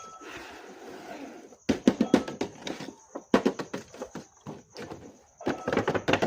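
Irregular flurries of sharp clicks and knocks, as of things being handled, after a short rustling hiss at the start.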